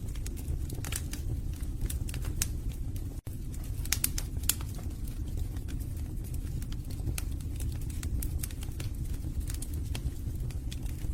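Wood logs burning in a fireplace: frequent, irregular sharp crackles and pops over a steady low rumble of the flames, with a split-second break in the sound about three seconds in.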